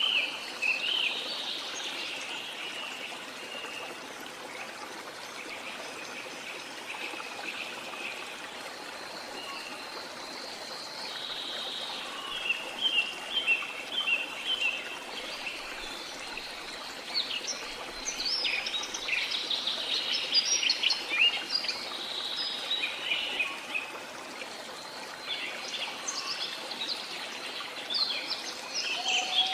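Steady rush of falling water from a waterfall, with many birds chirping over it in short calls, busiest in the second half.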